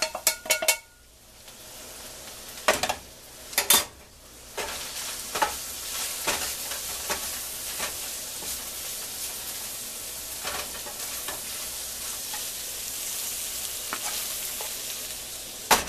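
Shaved steak with green peppers, mushrooms and onions sizzling in a skillet as it is stirred with a spatula. A few sharp knocks of pan and spatula come at the start and again about three seconds in, then steady sizzling with occasional light scrapes and taps of the spatula.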